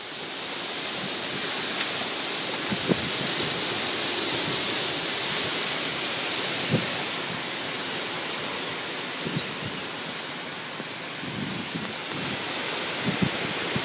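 Strong wind of a dust storm rushing steadily, with a few short low buffets of wind on the microphone.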